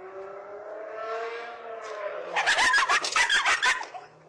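A dog howling: one long pitched call that rises and then falls over about two seconds. It is followed by a quick run of barks that stops shortly before the end.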